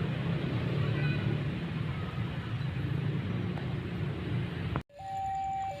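Diesel locomotive engine rumbling heavily as it pulls away from a station. Near the end the sound cuts off abruptly, and an electronic alarm starts, alternating steadily between two pitches.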